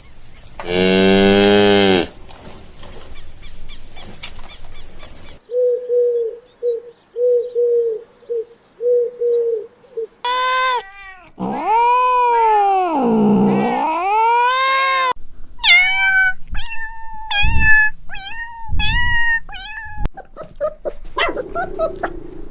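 Cat meowing, a series of separate calls: a loud meow near the start, a row of short repeated notes, one long meow that dips and rises in pitch in the middle, then several short, higher mews.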